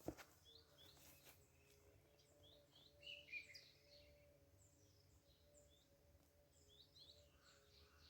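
Faint birdsong: many short, high chirps from small birds, a little louder about three seconds in, over a faint steady hum.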